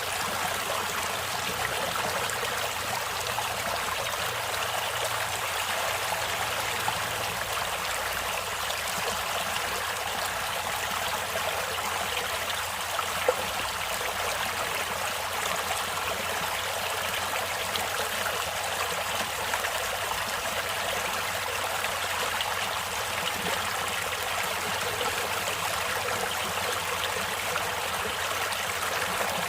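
Stream water flowing and trickling steadily, with one brief splash or click about halfway through.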